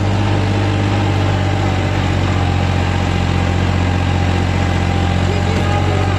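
Tractor engine running at a steady, unchanging speed, with a deep even hum.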